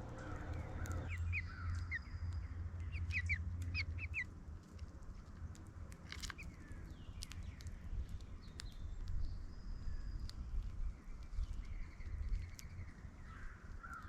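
Outdoor birds calling, with a run of short, quick chirps a second or two in and sparser calls after. A low rumble sits underneath for the first few seconds.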